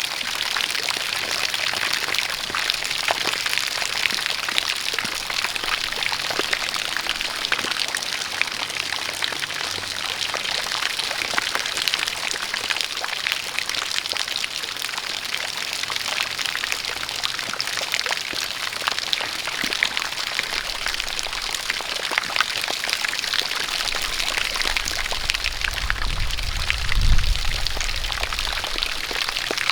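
Steady rain falling with a spout of water pouring, a constant hiss full of fine drop patter. A low rumble swells and fades near the end.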